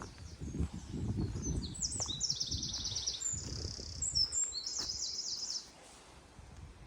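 A small songbird singing quick, high trilled phrases of rapidly repeated notes for about five seconds. Under it is a low rumbling noise, which stops at the same moment as the song, near the end.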